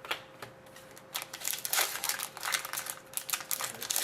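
Trading card pack wrapper crinkling and rustling in the hands, a dense run of crackles starting about a second in.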